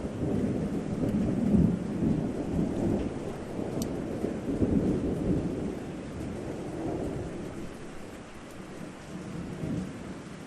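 Thunder rumbling over steady rain: a long low roll that breaks in suddenly, swells in waves for several seconds and fades away, with a smaller rumble near the end.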